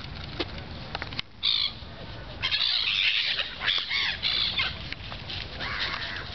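A flock of seagulls calling over one another, many overlapping cries as they crowd in for bread thrown to them. A single call comes about a second in, and the dense calling starts about halfway through.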